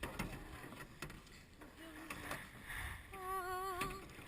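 Canoe paddles dipping and knocking against the canoe in uneven strokes, with a splash about two and a half seconds in. A voice calls out in a long wavering shout near the end.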